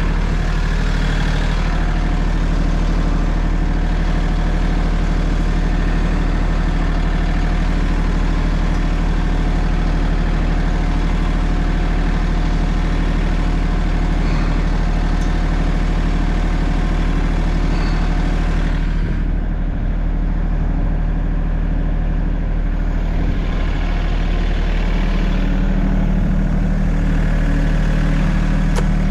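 A heavy engine running steadily at idle. About two-thirds of the way through, its higher notes thin out, and near the end the low hum grows stronger.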